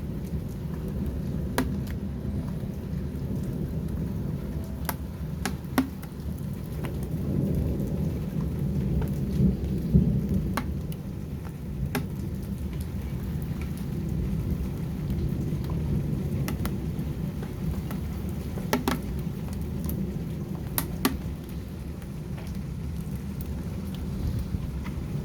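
Heavy storm rain with a steady low rumble that swells about a third of the way in, and scattered sharp taps of drops striking a hard surface.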